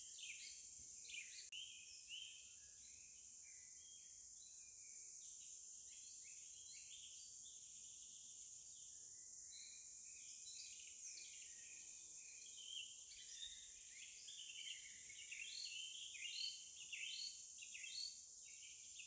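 Birds chirping in quick, repeated short calls over a steady high-pitched insect drone, faint throughout.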